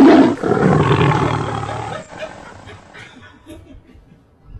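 Tiger roaring, loudest at the start and dying away about two seconds in.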